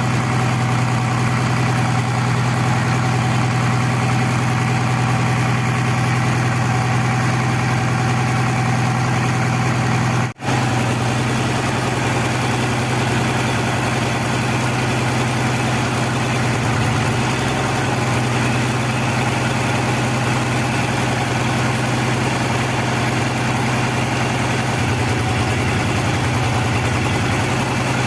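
Freshly rebuilt old Toyota forklift engine idling steadily on its first run, with an even low hum. The sound cuts out for an instant about ten seconds in.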